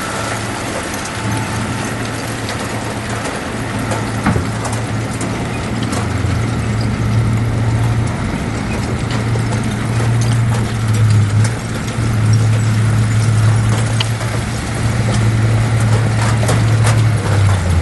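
Diesel engine of heavy earthmoving machinery running steadily, its low hum wavering a little in pitch, with scattered metallic clanks and knocks.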